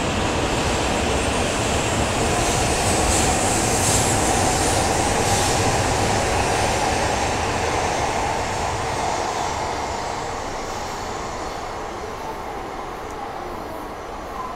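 An E6-series Komachi Shinkansen train pulling out along the platform: steady running and wheel noise with a faint whine. It is loudest about four seconds in, then fades steadily as the train moves away.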